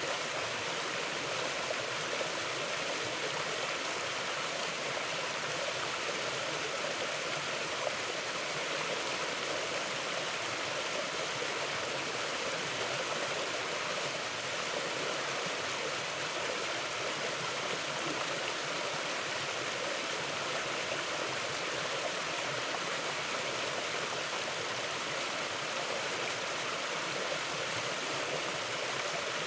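A river or creek flowing over rocks, a steady rushing of water without change.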